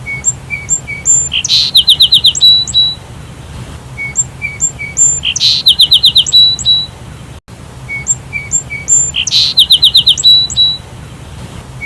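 Sparrow chirping: the same phrase about every four seconds, a few lower chirps, then several high falling notes, then a fast run of chirps. A faint steady low hum sits underneath.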